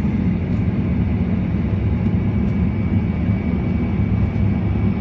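Jet airliner's engines and airflow on takeoff, heard as a steady low rumble with a faint thin whine above it.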